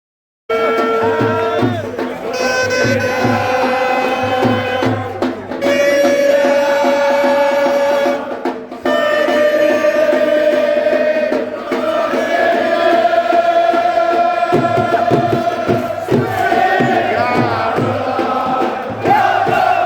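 A large cricket crowd singing and chanting in unison, holding long notes, over a steadily beaten drum. It cuts in about half a second in.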